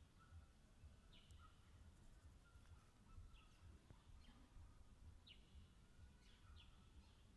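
Near silence, with faint short bird chirps repeating every second or two.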